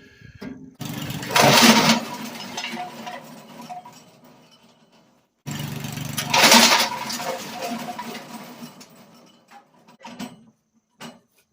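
Small gasoline engine of a Mackissic Mighty Mac wood chipper starting up twice, each time running loud for a moment and then dying away over a few seconds, typical of the chipper jamming and stalling the engine.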